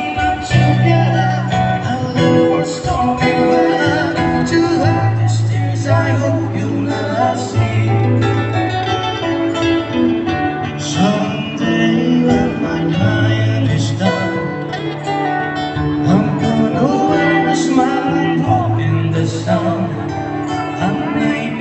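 A song performed live: a singer with guitar and band accompaniment, over steady held bass notes.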